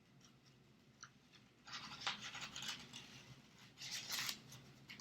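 Scissors cutting through paper: two short runs of snipping, one starting about a second and a half in and another near the end.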